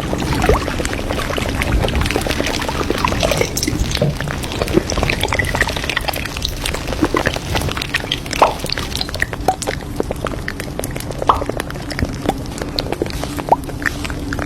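Café ambience: liquid being poured, with scattered short clinks and taps over a steady background hum.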